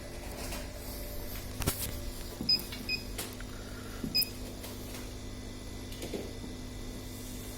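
Laser cutting machine humming steadily, with three short high electronic beeps and a few sharp clicks.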